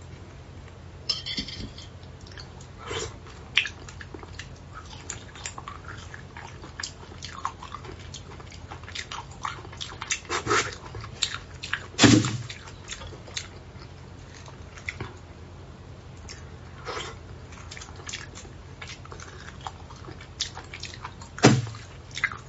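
Close-miked chewing and wet mouth sounds of someone eating braised beef bone marrow, with scattered small clicks as a thin skewer works the marrow out of the bone. Two louder mouth sounds stand out, about twelve seconds in and near the end.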